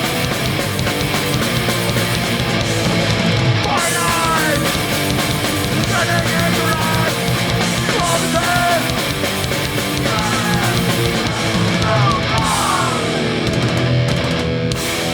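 Hardcore punk band playing live at full volume: distorted electric guitars, bass and drums, with the song stopping abruptly at the very end.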